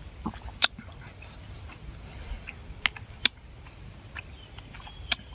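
Chewing fresh honeycomb close to the microphone: a few sharp, wet clicks and smacks at irregular intervals.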